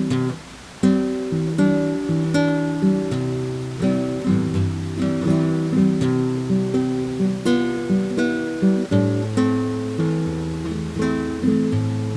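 Acoustic guitar music: a run of picked and strummed notes, with a brief break about half a second in before the playing resumes.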